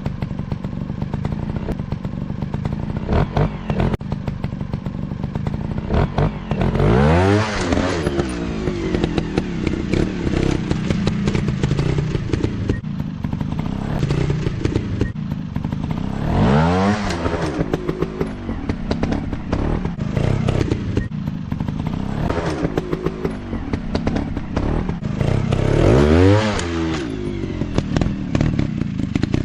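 Dirt bike engine running, revving up and back down three times about ten seconds apart, with clattering and crackling between the revs.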